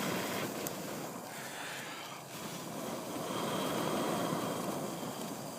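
Pot of water at a boil over a camp fire: a grainy, rushing bubbling noise that swells, eases a little about two seconds in, then swells again.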